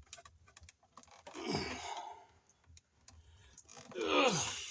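Light clicking of wires being handled, then two drawn-out vocal groans falling in pitch, the second louder: a man's effort sounds while twisting a wire nut tight onto four wires.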